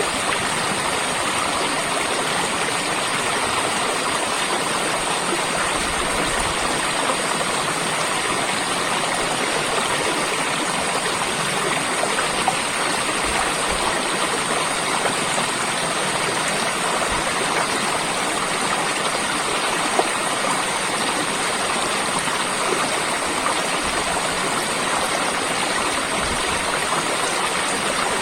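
Steady rush of running water, like a stream flowing over rocks, with no break or change in level.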